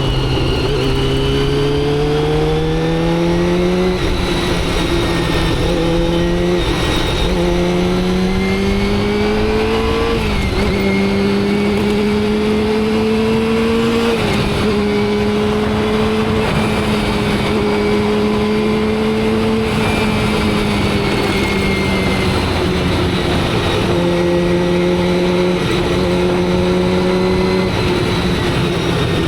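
Motorcycle engine pulling up through the gears: its pitch climbs and drops back at each shift, about four times in the first fourteen seconds, then holds at steady cruising revs. There is a short dip near the end. Wind and road noise run underneath.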